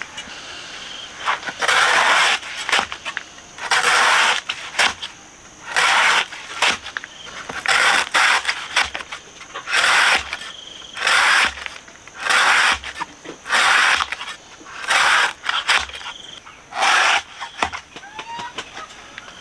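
A run of rhythmic scraping strokes, each about half a second long and one every second or so, over a faint steady high-pitched tone.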